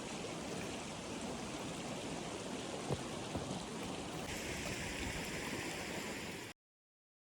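Steady rushing noise, like running water, with a single sharp knock about three seconds in; a brighter hiss joins past the four-second mark, and the sound cuts off suddenly near the end.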